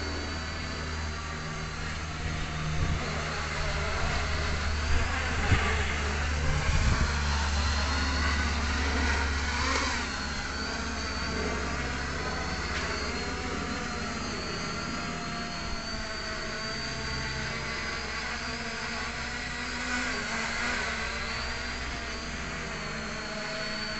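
MJX V6 quadcopter drone's motors and propellers whining in flight, the pitch wavering up and down as it holds position. Strong wind buffets the microphone in a low rumble, with gusts loudest from a few seconds in to about ten seconds.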